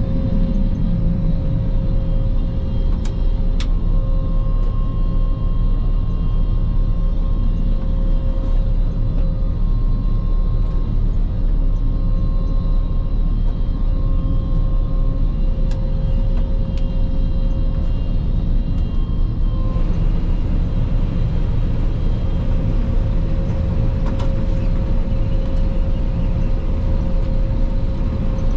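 Claas Lexion 480 combine harvester running steadily: a constant low machinery drone with a steady hum above it, and a fainter higher tone coming and going through the first two-thirds.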